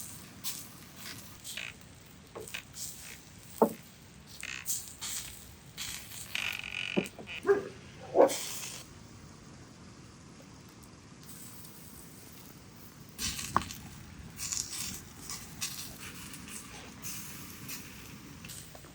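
A dog giving a few short yelps, loudest about four seconds in and again around seven to eight seconds in, among scattered clicks and knocks.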